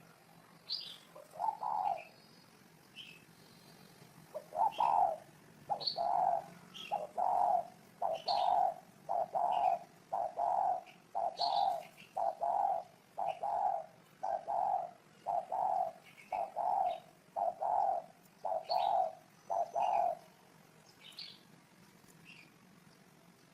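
Spotted dove cooing: one low note about a second and a half in, then a long fast run of short low coos, a little under two a second, from about four seconds in until they stop about twenty seconds in. Short high chirps from smaller birds run throughout.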